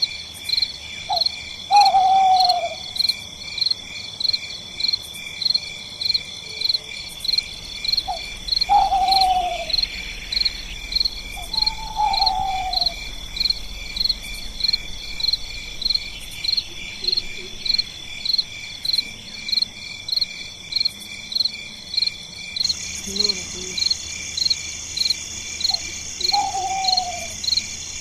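Night insect chorus of crickets or katydids, a steady high pulsing at about one and a half pulses a second. Over it come four short hoots that fall in pitch, spaced several seconds apart.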